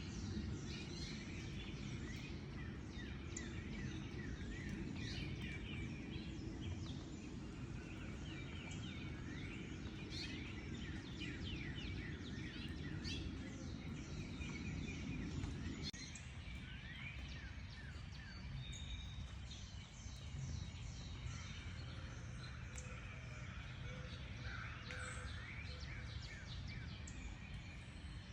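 Several small songbirds chirping and calling at once, many quick high notes and short sweeps overlapping throughout. Underneath runs a low, even rumble that drops away abruptly a little past halfway.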